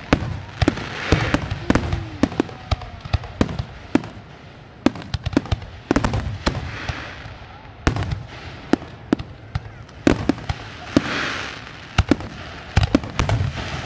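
Aerial fireworks display: a steady run of sharp bangs and pops, with bursts of crackling at about one, seven and eleven seconds in.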